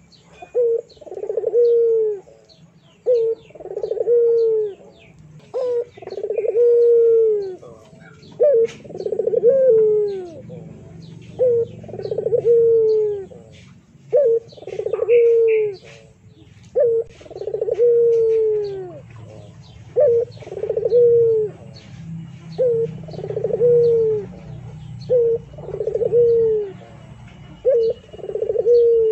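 A pigeon cooing over and over, about every two and a half seconds; each coo is a short note followed by a longer falling one. Small birds chirp faintly behind it.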